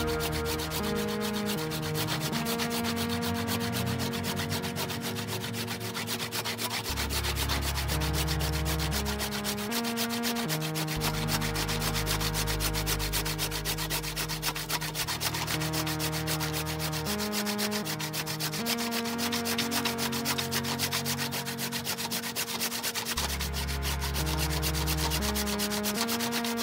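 Wood being sanded in fast, even rubbing strokes, over background music with sustained chords and a stepping bass line.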